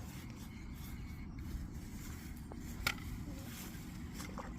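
Steady low outdoor background rumble, with a few faint clicks and knocks scattered through it.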